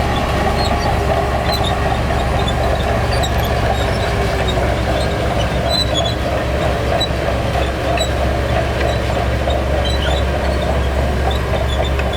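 Heavy diesel earthmoving machinery running steadily with a low engine drone, with faint high squeaks scattered throughout.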